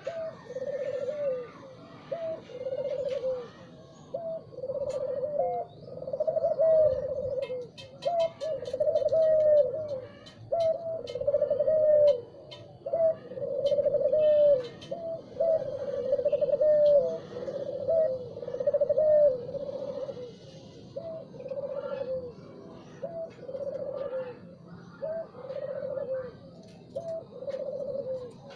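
Spotted dove cooing over and over, a short bending note followed by a longer low coo, repeating about every second and a half, with faint higher chirps of other birds behind it.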